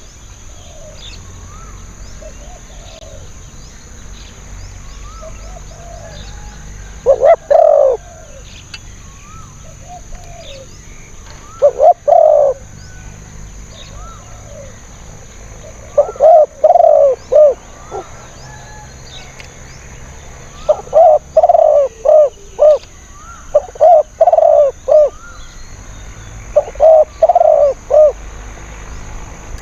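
Spotted dove cooing: six loud phrases of two to five quick coos, spaced a few seconds apart. Fainter coos and small high chirps from other birds come between the phrases.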